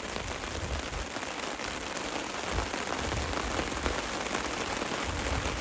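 Heavy torrential rain falling steadily, a dense hiss of countless drops with irregular low thumps mixed in.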